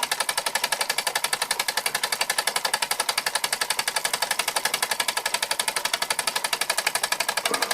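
1897 Carette live-steam toy engine running fast under steam, a rapid, even mechanical beat of roughly ten strokes a second.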